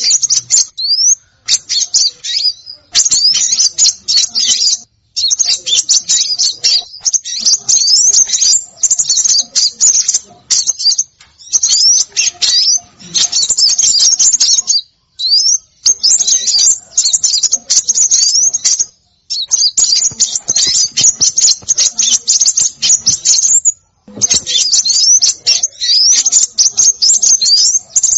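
Small songbirds calling in rapid, high-pitched chattering runs, mixed with quick rising whistled sweeps, in bursts of a few seconds broken by brief pauses: a bird-lure call recording.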